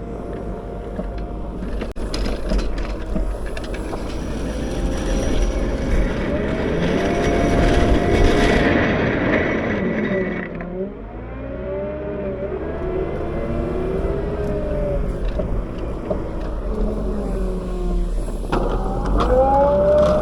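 Caterpillar 908 compact wheel loader's diesel engine working under load while plowing snow, its pitch rising and falling again and again as it is throttled up and down. There is a brief drop a little past halfway before it revs back up.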